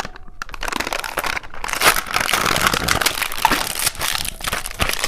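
Plastic candy packaging crinkling as it is torn open and handled, a dense run of crackles that is loudest in the middle.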